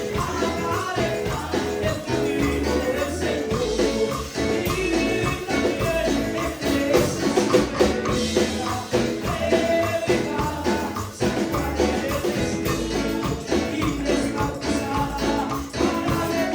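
Upbeat Pentecostal gospel choruses (coros): singing over a steady driving beat with tambourine jingling.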